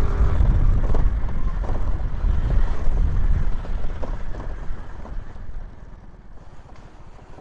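Wind rumble on the microphone with scooter and road noise while riding an Aprilia SR150. It grows quieter about halfway through.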